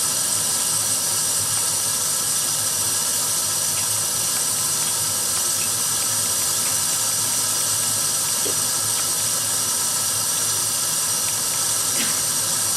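Kitchen tap running steadily into the sink, an even hiss of flowing water.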